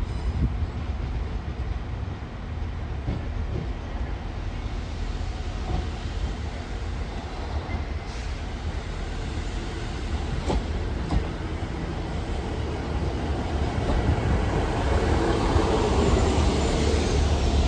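A train running in the station, a steady low rumble that grows louder over the last few seconds, with a few sharp clicks around the middle.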